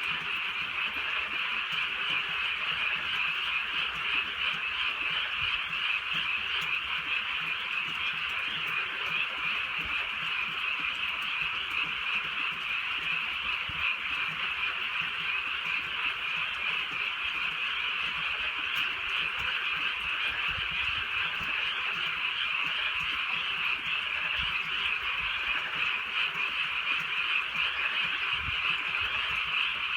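A dense chorus of many frogs calling at once, a continuous, even croaking that runs without a break.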